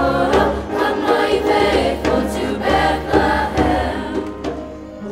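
School children's chorus singing with accompaniment. The music dies away toward the end.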